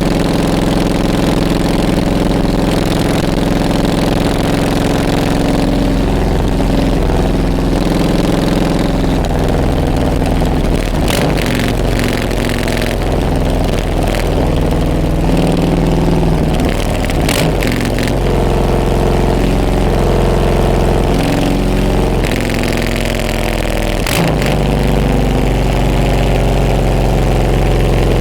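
Harley-Davidson Softail Deluxe's Milwaukee-Eight V-twin engine running loud while riding, its pitch rising and falling as the throttle opens and closes.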